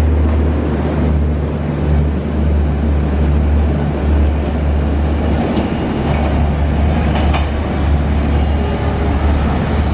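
Passenger train coaches of the Banalata Express rolling past and away on the rails, a steady heavy rumble with a wide hiss over it.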